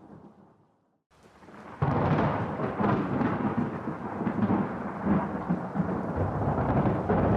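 Thunderstorm: rumbling thunder over rain. The sound fades almost to silence about a second in, then comes back, and a loud rolling rumble starts suddenly just under two seconds in and carries on.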